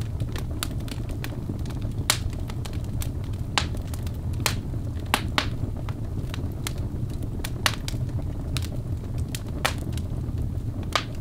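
Wood fire burning in a fireplace: sharp, irregular crackles and pops over a steady low rumble of the flames.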